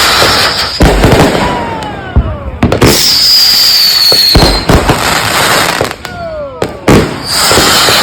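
Consumer aerial firework cakes firing: loud booms about every two seconds, with whistles falling in pitch between them and a dense crackle filling the gaps.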